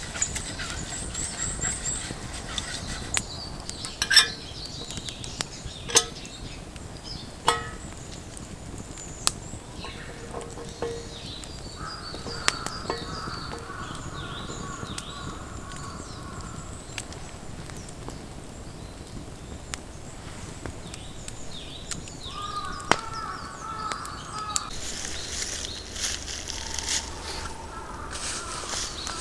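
Birds calling in woodland, with repeated short notes that come twice, and a few sharp pops or knocks in the first several seconds.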